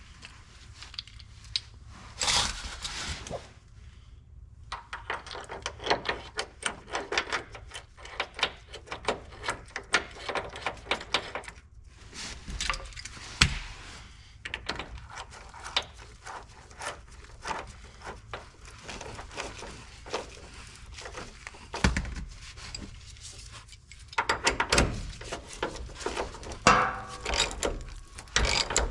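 Hand tools working on the truck's cab mount: an irregular run of metal clicks and clanks, with a few louder knocks.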